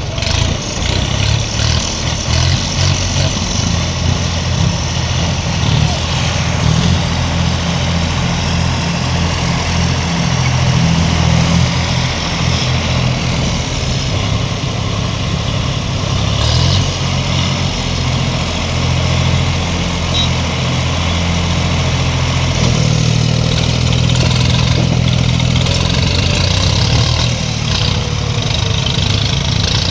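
Three-cylinder diesel tractor engines of a John Deere 5210 and a Swaraj 855 running steadily, pitched up and down slightly now and then, in a tractor tug-of-war.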